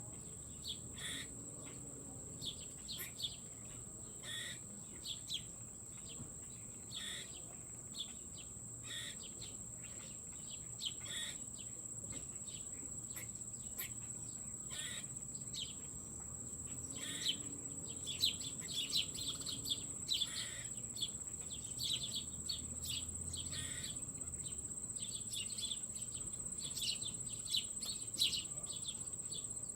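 Small birds giving short, repeated chirps, more often in the second half, over a steady high-pitched whine that never lets up.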